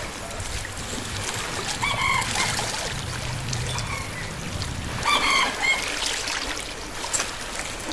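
A rooster crowing twice, a few seconds apart, over a steady hiss of rain.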